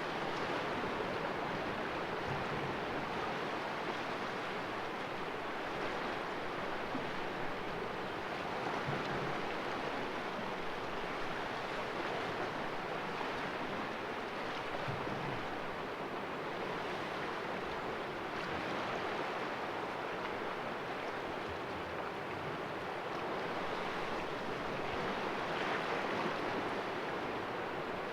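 Sea waves washing against the rocks of a small cove, a steady wash of surf that swells and eases gently every few seconds.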